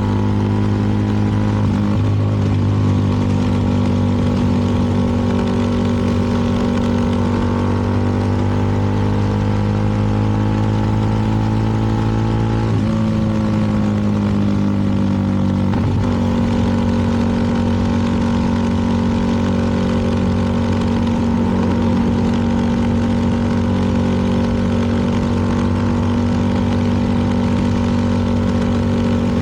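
CFMoto 300NK's single-cylinder engine running steadily under way. Its pitch steps up about thirteen seconds in, sags slowly for a few seconds, and shifts back down about three seconds later.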